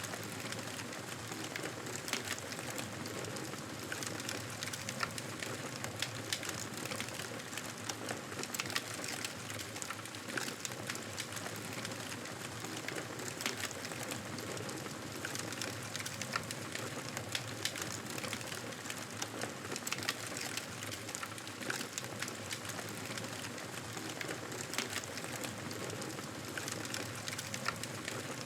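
Wood fire crackling steadily, with frequent small snaps and pops over a soft hiss.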